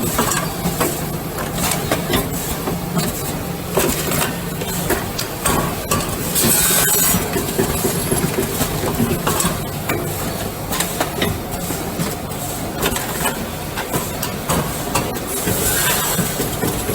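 Filling and packing machine for coffee bags running, with a steady mechanical noise, scattered clicks and knocks, and short bursts of hiss about six seconds in and again near the end.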